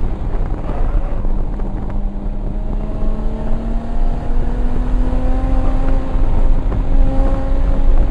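The single-turbo 1994 Toyota Supra's inline-six engine pulling hard under acceleration, its pitch climbing steadily through one gear. Heavy wind and road noise run underneath.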